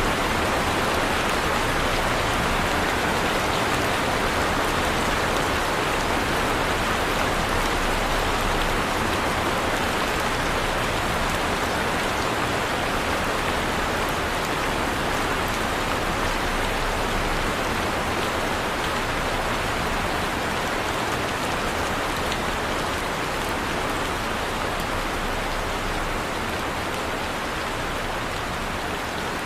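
Heavy rain falling steadily, a dense, even hiss of many drops on a surface, easing very slightly in loudness toward the end.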